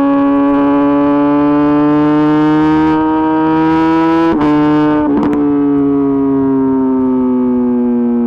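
Kawasaki ZX-10RR inline-four through an Arrow Pro-Race exhaust, under way: the engine note climbs steadily for about four seconds. It is broken by a couple of sharp cracks about four to five seconds in, then the note eases down slowly.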